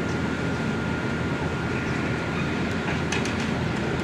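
Heavy machinery diesel engine running steadily, with a thin steady high-pitched whine over it and a few sharp metallic clicks about three seconds in.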